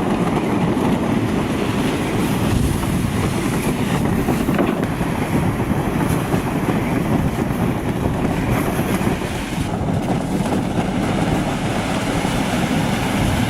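Heavy engine-driven machine running steadily under load, a loud continuous rumble with a rushing, churning noise over it.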